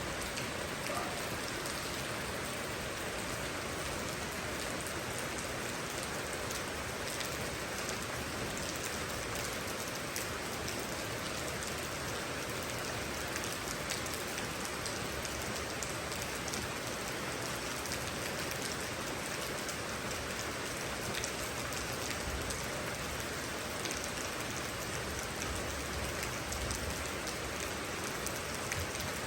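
Steady rain falling and pattering on surfaces, an even hiss dotted with many small drop ticks.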